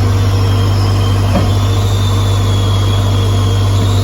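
Diesel engine of a Case backhoe loader running steadily with a deep, even hum, and a faint high whine wavering above it.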